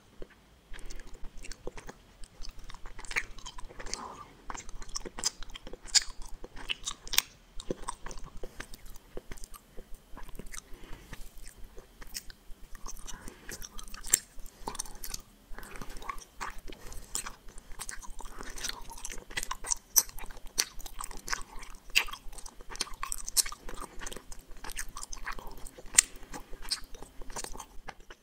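Close-miked chewing of gummy candies: a dense, irregular run of sharp sticky clicks and smacks from the mouth.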